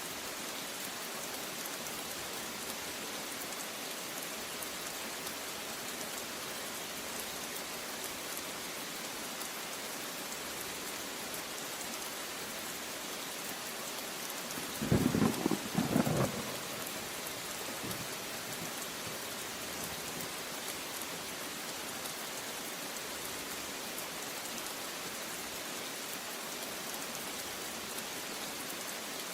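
Steady rain falling, with a short burst of thunder about halfway through, the loudest sound.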